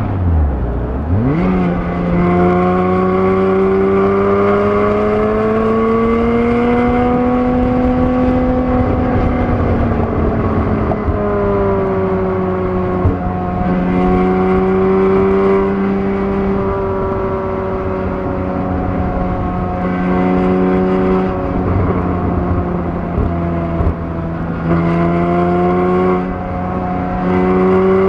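The 3.4-litre flat-six of a 2013 Porsche Boxster S (981), heard from inside the cabin at track pace. Its pitch sinks low, then jumps up about a second in as the car is shifted down from sixth to third. It then pulls steadily at around 4,000 rpm, rising and falling gently with the throttle, with a few brief dips.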